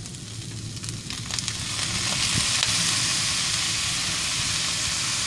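Frog meat sizzling in a hot wok as soy sauce is poured in. The sizzle swells to a louder, steady hiss about two seconds in.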